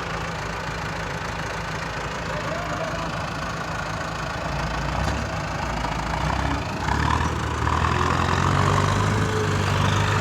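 Farm tractor diesel engine running steadily, then getting louder and heavier about seven seconds in as it takes up load pulling the stuck tractor out of the mud.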